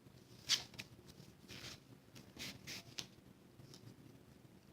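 Cardstock being handled: a few faint, brief rustles and light taps of paper being moved about.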